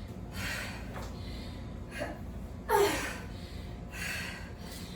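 A woman breathing hard during high-intensity exercise: four heavy breaths about a second apart. The loudest, a little before the midpoint, is a voiced exhale that falls in pitch.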